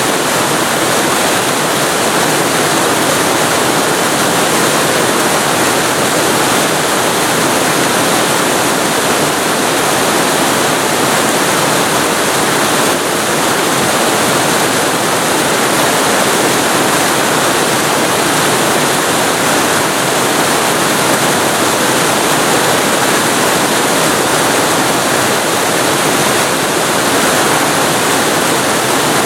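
Waterfall heard from very close: a loud, steady rush of falling water.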